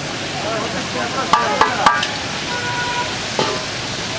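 Hot oil sizzling and steaming in a large metal cooking pot as fried raisins are tipped from a metal bowl onto shredded carrots, with three sharp metal clanks in quick succession around the middle.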